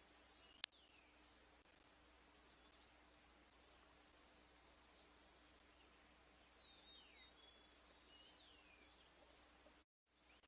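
Steady, high pulsing chorus of insects such as crickets, with a few faint, short, descending bird chirps now and then. One sharp click comes about half a second in, and the sound cuts out briefly near the end.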